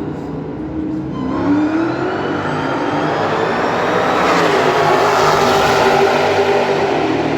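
A car engine at high revs on a racetrack, rising in pitch as it accelerates and growing louder as it approaches, loudest around the middle to latter part.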